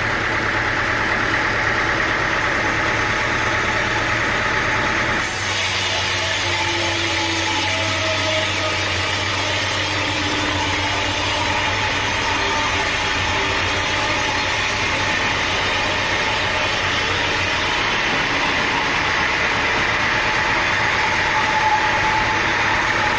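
Sawmill engine running steadily. About five seconds in, a high hiss abruptly joins it, and it stops suddenly some twelve seconds later.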